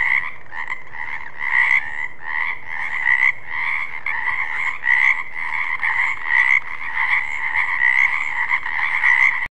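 Frog croaking in a steady run of repeated calls, about three a second, each call a rough two-toned croak. The croaking cuts off abruptly near the end.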